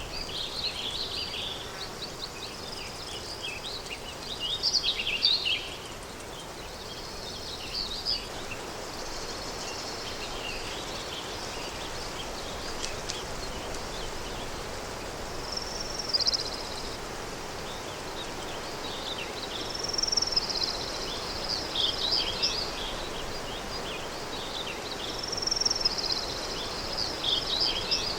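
Recorded countryside day ambience: a steady wind-like rush under songbirds chirping and twittering in short bursts every few seconds, the loudest about five seconds in and again near the end.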